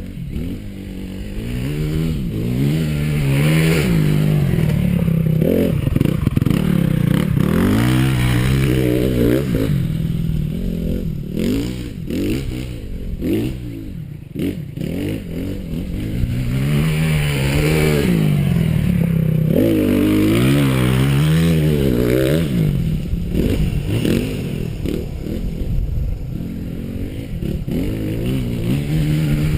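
Honda CRF250R four-stroke single-cylinder motocross engine revving up and dropping back, over and over, as the bike brakes into turns and accelerates out of them.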